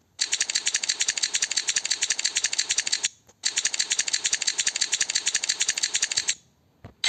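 Rapid mechanical ratcheting clicks in two runs of about three seconds each, separated by a short break.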